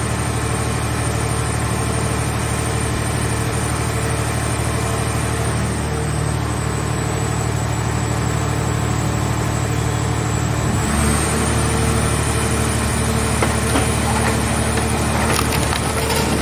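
Engine-driven hydraulic power unit of a mobile car-body baler running steadily, with a high whine over it. About eleven seconds in, its note changes and it grows a little louder as load comes on, and near the end sharp cracks and crunches of metal being crushed come through.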